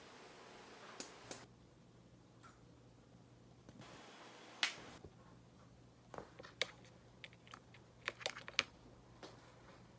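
Scattered light clicks and taps of utensils and tableware being handled, a single one about a second in and another near the middle, then a quick cluster in the second half, over a faint steady low hum.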